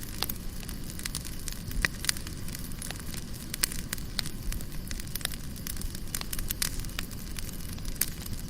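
Wood fire burning in a Romotop fireplace insert, with irregular sharp crackles and pops over a low steady rumble.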